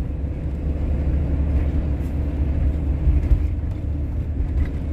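Camper van driving, a steady low rumble of engine and road noise heard from inside the cab.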